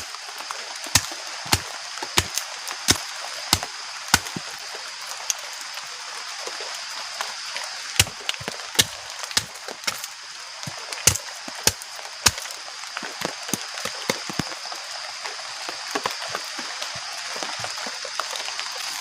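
Steady rain hissing, with heavy drops knocking sharply and irregularly on a surface close by, sometimes a couple in a second, sometimes a pause of a few seconds.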